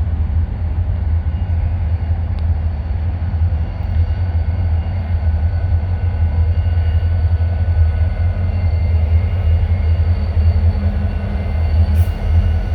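Freight train rolling past close by: a loud, steady low rumble of diesel locomotives and railcars, with faint thin steady tones above it.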